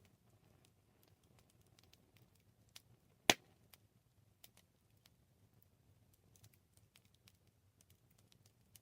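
Wood campfire crackling: scattered small ticks and snaps, with one loud pop about three seconds in, over a faint low rumble of the burning fire.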